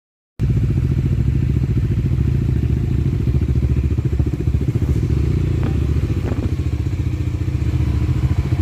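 Motorcycle engine running steadily close to the microphone, a loud, low, rapid and even pulsing from the exhaust. It starts abruptly about half a second in.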